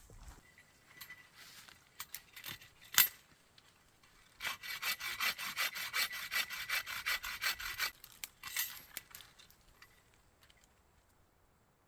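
Hand saw cutting into a standing dead tree: a few scattered knocks, one sharp click about three seconds in, then a run of quick, even back-and-forth strokes lasting about three and a half seconds, with a few more strokes after a short pause.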